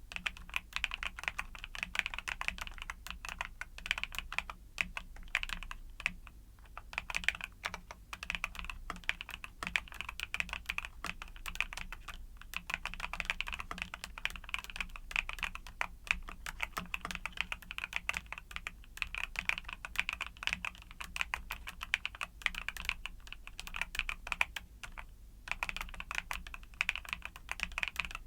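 Steady, fast typing on a mechanical keyboard with YUNZII Cocoa Cream switches: a dense run of keystroke clacks. It eases off briefly about six seconds in and again near the end.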